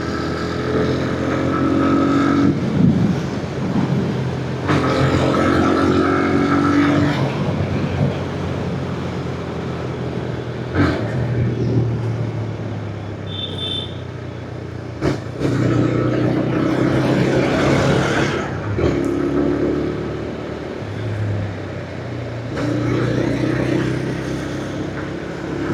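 Motorcycle engine running while riding, its note coming up and easing off several times over the stretch, over steady wind noise.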